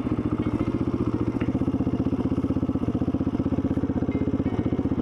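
Dirt bike engine running steadily at low revs, a fast, even beat of exhaust pulses with no revving.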